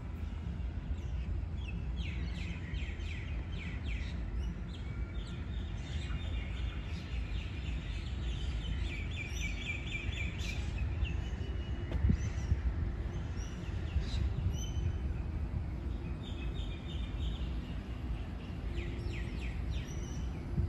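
Birds calling in quick chattering runs, repeated several times, over a steady low rumble.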